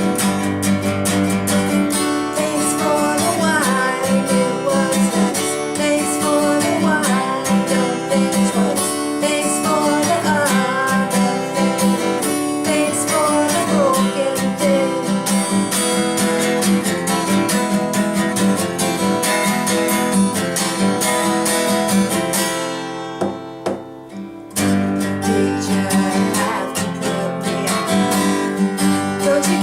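Strummed acoustic guitar with a singer in a singer-songwriter song. About three-quarters of the way through, the music drops almost to nothing for a second or two, then starts again.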